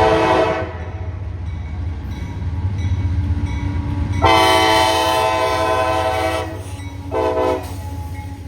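Freight train's locomotive air horn blowing a chord: a blast ending about half a second in, a long blast about four seconds in, then a short one near the end, over the train's steady low rumble.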